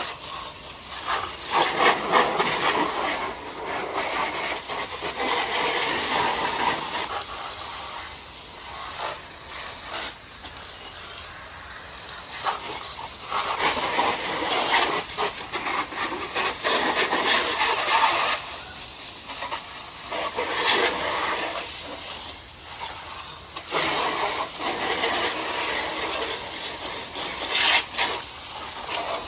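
Water spraying onto a motorcycle to rinse off loosened dirt and cleaner, swelling and fading as the spray moves over the bike.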